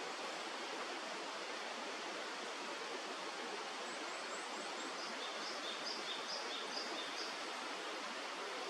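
Steady rush of flowing river water. In the middle, a bird gives a short series of faint, high, thin chirps, about three a second.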